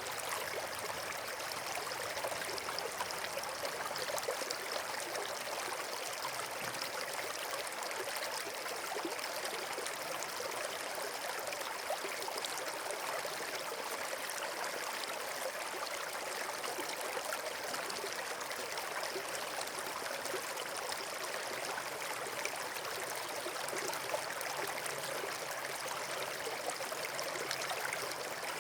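Steady rush of flowing water, an even hiss and splash with no pauses.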